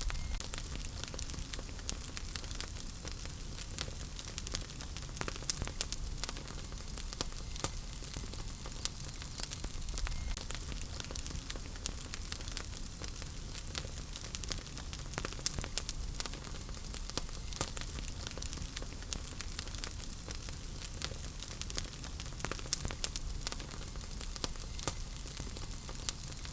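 Wood fire crackling in a fireplace: a steady low rumble and hiss with frequent sharp, irregular pops and snaps.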